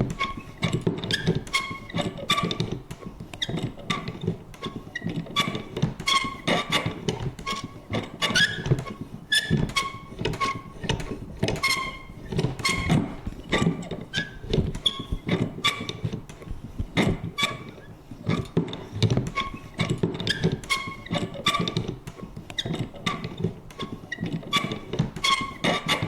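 Vintage paper punch worked over and over: a dense, irregular run of clicks and knocks, several a second, mixed with short pitched creaks and squeaks.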